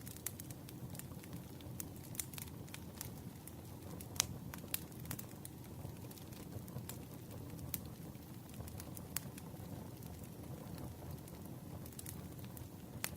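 Campfire burning: a steady low rumble with scattered, irregular crackles and pops. One pop is louder than the rest, about four seconds in.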